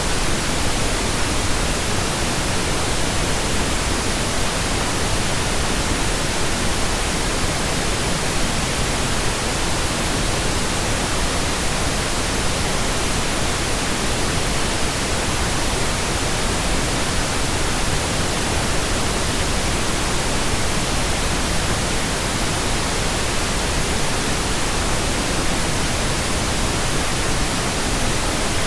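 Steady, unchanging pink noise: an even, featureless hiss spread across all pitches, generated in Audacity.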